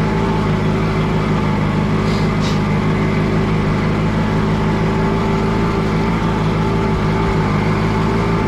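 Allis-Chalmers G tractor's small four-cylinder gasoline engine running steadily under way, on a carburetor the owner suspects is gummed up from stale gas.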